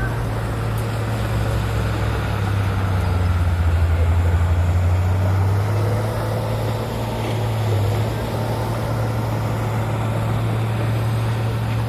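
Diesel engine of heavy earthmoving machinery running steadily, working harder and growing louder for a few seconds partway through, with a smaller swell later.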